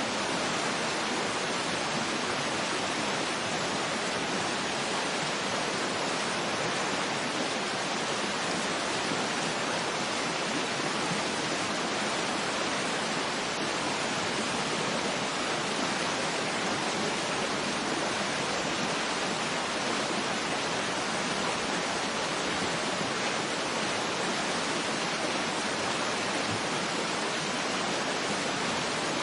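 Waterfall ambience: a steady, even rush of falling water with no change in level.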